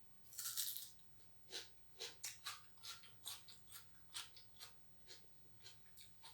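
A person eating close to the microphone: a short crunchy bite, then chewing with wet mouth clicks about three a second.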